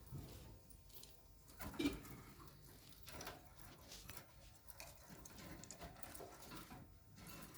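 Faint, irregular small taps and rustles, with one louder knock about two seconds in.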